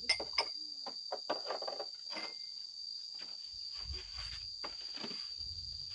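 Insects calling outdoors, one steady high-pitched note that never breaks. Several sharp clicks and knocks come in the first two seconds, with a few fainter ones later.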